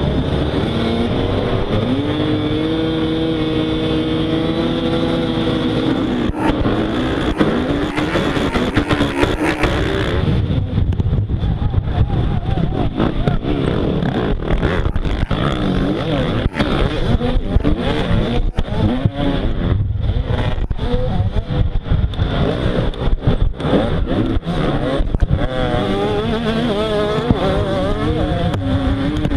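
Motocross bike engine revving up and down as it is ridden, its pitch held steady for a few seconds near the start and then rising and falling again and again, with frequent short knocks and rattles.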